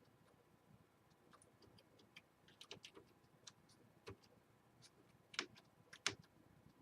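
Faint, scattered clicks of a computer mouse and keyboard in use, with a few sharper clicks in the second half.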